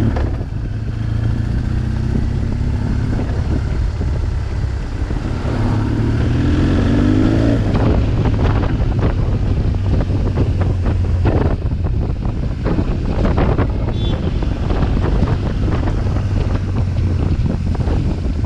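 BMW R 1200 GS boxer-twin engine with an SC Project exhaust, running under way with wind buffeting the microphone. The engine note rises briefly about six to seven seconds in as the bike accelerates.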